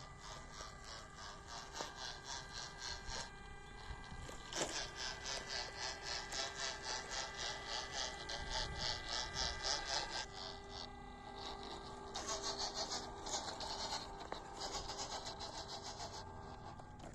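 Small electric motor and gearbox of a 1/16-scale WPL RC crawler truck whining steadily as it drives, the pitch shifting a couple of times. A fast, even high-pitched ticking runs over it at about four to five ticks a second, with a sharp click about four seconds in.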